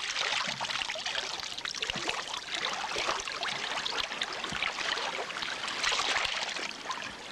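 Running water trickling and splashing steadily close by.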